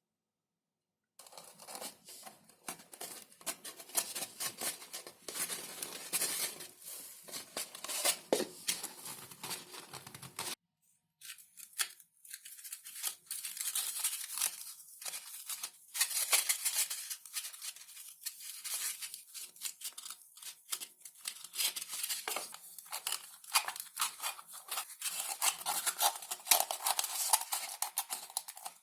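Thin XPS (Depron) foam sheet being cut and handled: dense, irregular crackling and scraping, with a brief silent break about ten seconds in.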